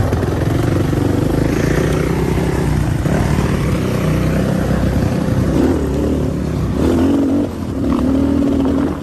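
Dirt bike engine running, its pitch rising and falling with the throttle, with brief dips in loudness in the last few seconds.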